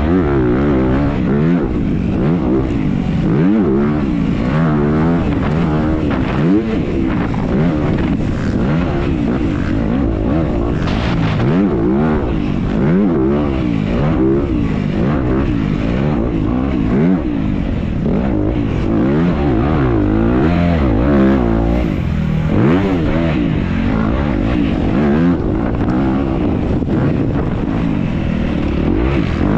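Off-road motorcycle engine revving hard under racing load, its pitch climbing and dropping again every second or two as the throttle opens and closes, picked up close by a GoPro on the bike or rider.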